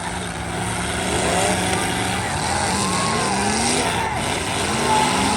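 Several demolition derby car engines running and revving, their pitches rising and falling over one another above a steady background din.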